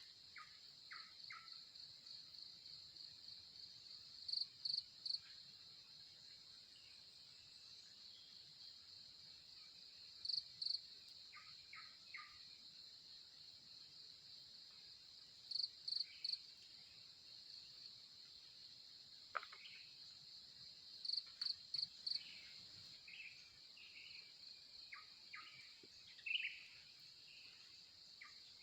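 Crickets trilling steadily in a high pitch, with a louder three-pulse chirp repeating about every five to six seconds, and a few short calls from other animals.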